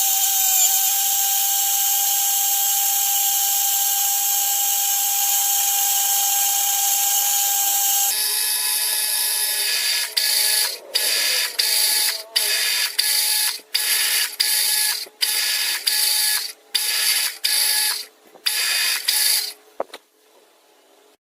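Machine tool cutting metal. It gives a steady whine for about eight seconds, then runs in short stop-start bursts with brief gaps, and goes quiet near the end.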